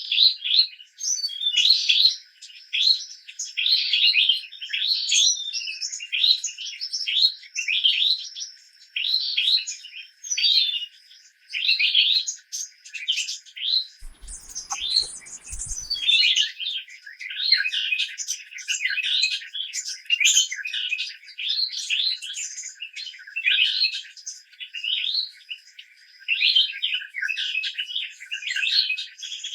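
Forest birds chirping continuously in quick, repeated calls, over a thin steady high tone. A few faint low knocks come about halfway through.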